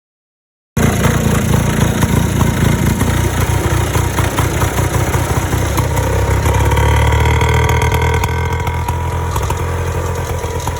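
Vintage snowmobile's small two-stroke engine running, cutting in suddenly about a second in. It runs uneven at first, then steadier and a little louder about halfway through.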